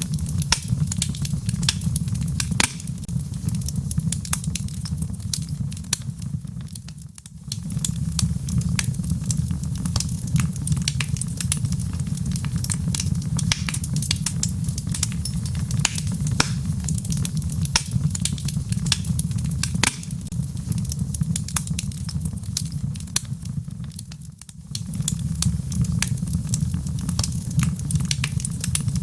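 Wood logs burning in a fireplace: a steady low rumble of flame with frequent sharp crackles and pops. The sound briefly fades and comes back twice, about a quarter of the way in and again near the end.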